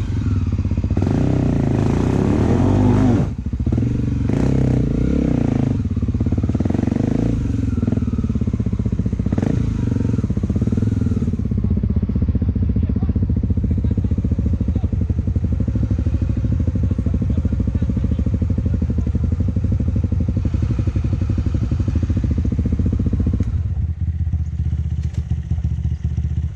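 Honda XR250 Tornado's single-cylinder four-stroke engine revving up and down with brief drops, as if through gear changes, for the first ten seconds or so, then running more steadily at lower revs.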